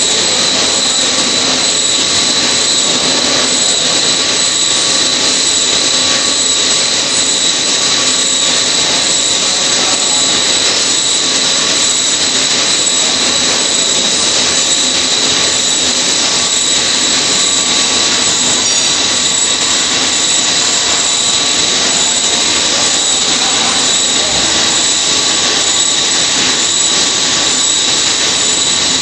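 Heavy-duty lathe cutting metal: a steady, loud machining noise with a high-pitched whine held at one pitch.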